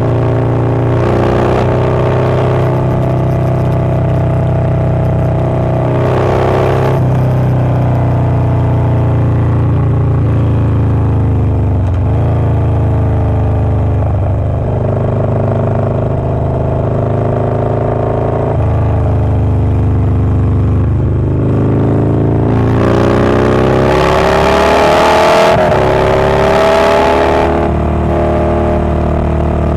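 Harley-Davidson Low Rider S's Milwaukee-Eight 117 V-twin with a Wood Performance 777XE cam running loud: the engine note climbs and drops again and again as it accelerates and eases off. The longest and loudest climb comes about three-quarters of the way through.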